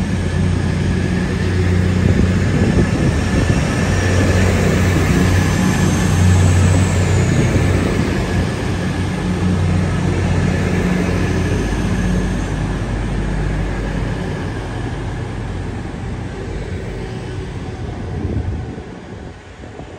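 Diesel train's engine running with a steady low drone, loudest in the first half and fading over the second half, dying away near the end.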